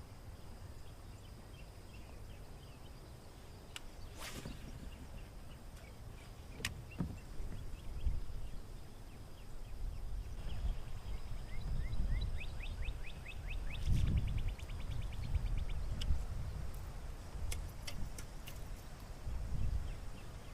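Wind buffeting the microphone, a low rumble rising and falling in gusts. Over the middle, a bird calls a series of short chirps that quicken into a rapid trill, and a few sharp clicks sound.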